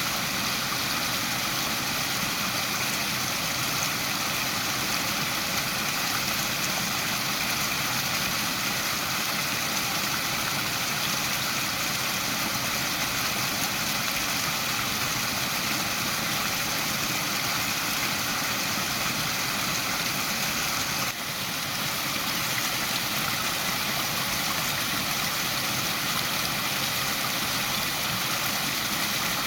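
Waterfall: a steady, even rush of falling water, with a brief dip in level about twenty seconds in.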